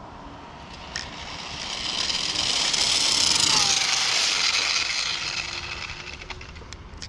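A vehicle passing by: a rushing hiss that swells for about three seconds, peaks with a brief drop in pitch as it goes past, then fades away.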